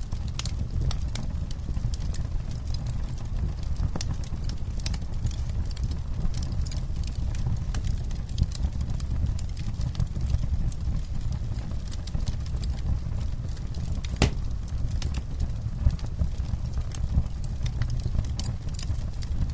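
Wood campfire crackling, with frequent small irregular pops and snaps over a steady low rumble, and one sharper pop about two-thirds of the way through.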